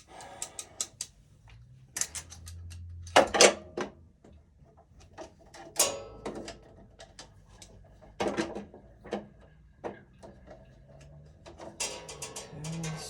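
Irregular clicks and clatters of a screwdriver and wires being worked at breaker terminals in an electrical panel, with louder knocks about three, six and eight seconds in and a quick run of clicks near the end.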